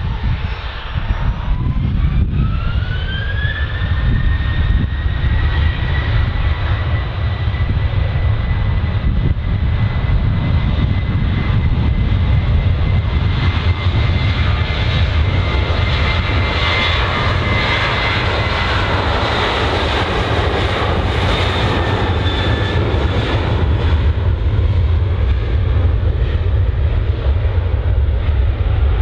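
Jet airliner's engines spooling up with a rising whine over the first few seconds, then running at steady high power over a deep rumble, as at the start of a takeoff run. The whine fades out near the end while the rumble carries on.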